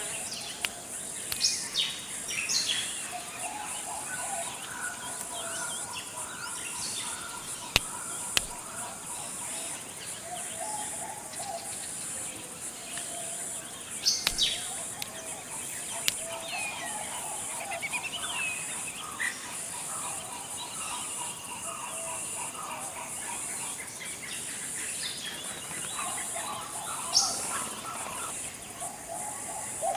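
Forest ambience: several birds chirping and warbling at intervals over a steady, high insect drone. The loudest moments are a few short, sharp bird notes near the start, about a third of the way in and near the end, and a single sharp click about eight seconds in.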